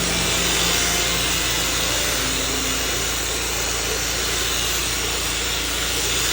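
Vacuum cleaner running steadily: a constant motor hum under a rushing of air.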